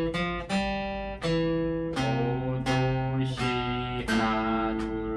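Acoustic guitar played with a pick: a slow melody of single notes, each plucked and left to ring into the next, picked with alternating down and up strokes.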